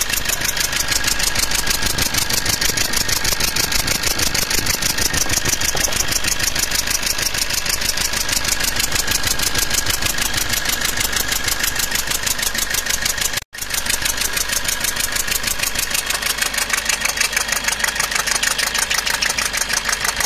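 Maruti Swift Dzire turbo-diesel engine idling with a fast, even ticking chuff on every firing stroke, with a brief break about two-thirds of the way through. The noise is compression gas leaking past a failed injector seating washer.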